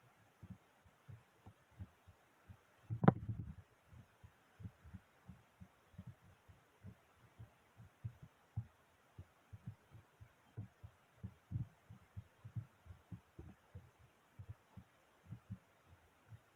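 Slime being squeezed and poked by hand, making soft, low popping squishes at an irregular pace, a few each second, with one louder, longer squish about three seconds in.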